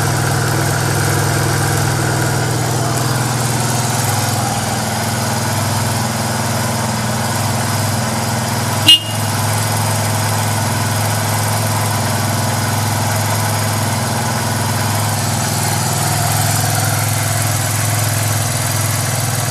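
Suzuki Goose 250's single-cylinder four-stroke engine idling steadily, heard through its exhaust. About nine seconds in, one sharp, very brief click cuts through the idle.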